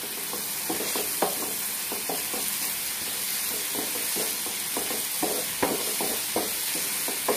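Boiled bottle-gourd peel pieces and spice paste sizzling in hot oil in a non-stick frying pan while being stirred: a steady sizzle with irregular scrapes and knocks of the stirring utensil against the pan, a few louder ones past the middle.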